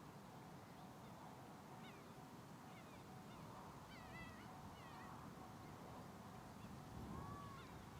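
Faint bird calls: several short chirps that rise and fall in pitch, a cluster of them about halfway through and one lower arching call near the end, over a quiet low background hum.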